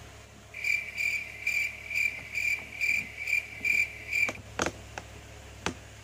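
High-pitched chirps repeating about twice a second for nearly four seconds, over a faint steady low hum, followed by a few sharp clicks.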